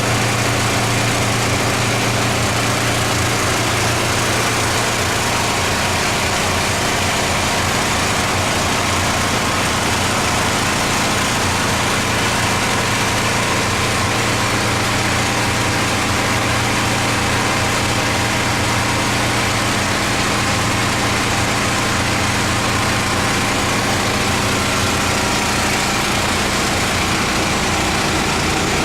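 Pressure washer's engine running steadily under a loud, even hiss of high-pressure water spray, typical of a surface cleaner at work on flatwork.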